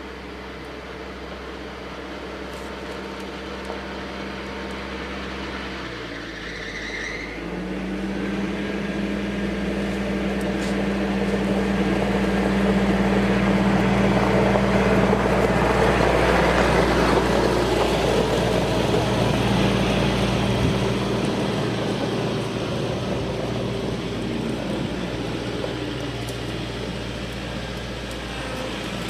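Tractor engine running steadily, its note shifting about six seconds in. It grows louder toward the middle, then fades somewhat, as if the tractor comes close and moves off again.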